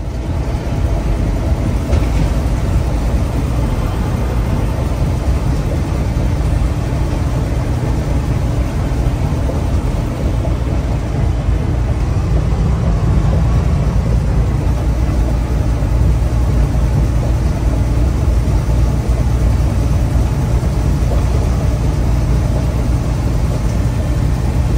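Semi-truck driving: the diesel engine's steady low drone and road noise, running evenly throughout.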